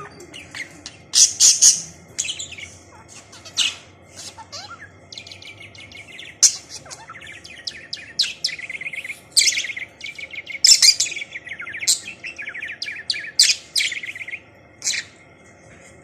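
Pet budgerigar chattering and warbling: a busy run of short chirps, fast trills and sharp high calls.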